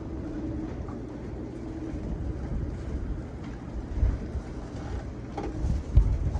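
Strong gusting wind buffeting a moored boat and the microphone, a steady low rumble that swells and eases, with a few knocks, the loudest about six seconds in.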